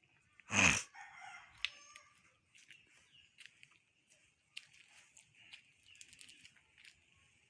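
A chicken gives one short, loud squawk about half a second in. Faint scattered clicks and rustles follow.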